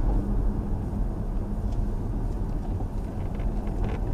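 Steady engine and road rumble of a car driving, picked up by a dashcam microphone inside the cabin.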